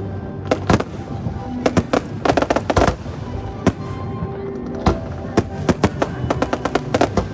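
Aerial fireworks bursting: irregular sharp bangs with a rapid crackling cluster about two to three seconds in, over background music.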